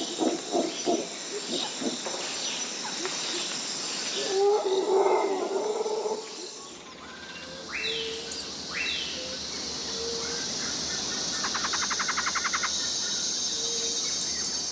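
Tropical rainforest ambience: a steady high insect drone under mixed animal and bird calls. At the start there is a run of low rhythmic hoots, and around four to five seconds a louder low call. The background changes abruptly at about seven seconds. After that come two downward-sliding whistles around eight seconds, a fast trill near twelve seconds and short repeated low notes.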